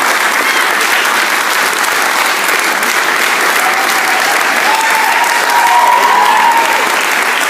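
Sustained applause from a concert audience, steady throughout.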